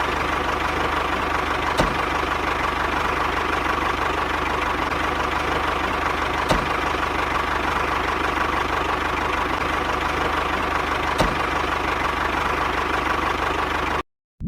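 A small motor running steadily, a constant hum with a thin whine over it and a few faint clicks, cutting off suddenly near the end.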